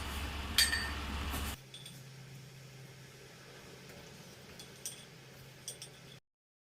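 A few light clinks of dishes or utensils, each with a short ring: one about half a second in and a few more near the end, over a steady low hum. The sound cuts off just before the end.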